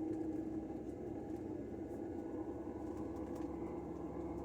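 Steady low cabin hum inside an Airbus A320 on the ground, with a constant droning tone from the aircraft's air-conditioning and machinery.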